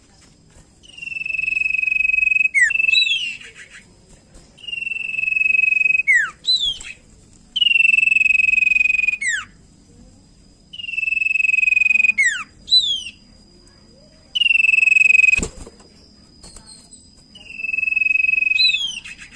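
Common iora (cipow) singing: six phrases, each a long steady whistle ending in a few quick sliding notes, with short pauses between. There is a sharp click about fifteen seconds in, and a faint steady high tone runs underneath.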